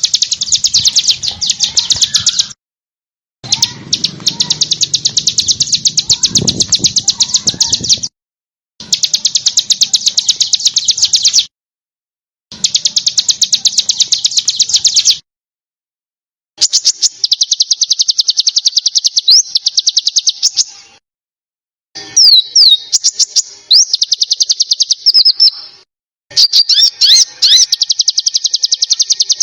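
Small songbird giving rapid, dense, high trills, a besetan, in bursts of about three seconds, each cut off abruptly with a second's gap before the next. In the later bursts, sharp quick whistled notes that slide up and down cut through the trill.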